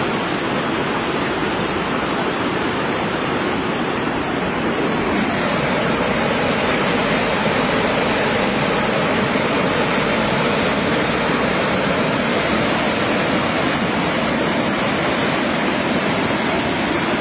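Steady rushing noise, a little louder from about six seconds in.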